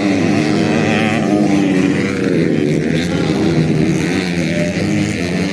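Dirt bike engine running hard, its revs wavering up and down as it is ridden.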